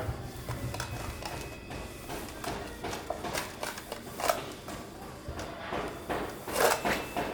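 Scattered light clicks and knocks of small objects being handled, with two sharper knocks about four and six and a half seconds in.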